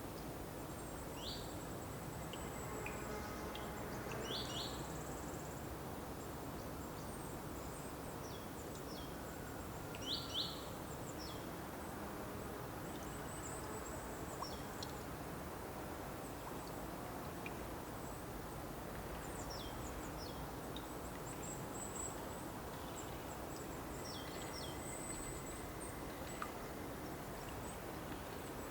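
Birds chirping over a steady outdoor background hiss. Short high chirps come every few seconds, several in quick pairs, with fainter, very high calls scattered between them.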